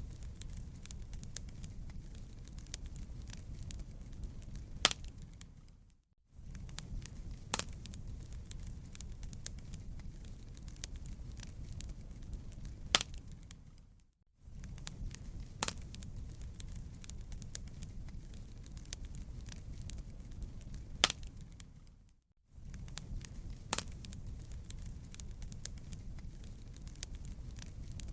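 Wood fire crackling in a fireplace: a low steady rumble with sharp pops a few times every several seconds. The recording fades out briefly and starts again about every eight seconds, as a looped fire track does.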